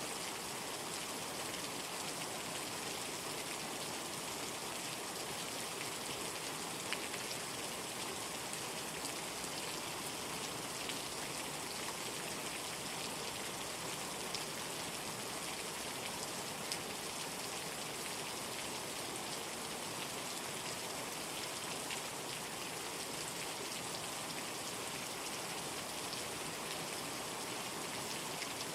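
Steady rainstorm rain, an even hiss with a few louder single drop ticks scattered through it.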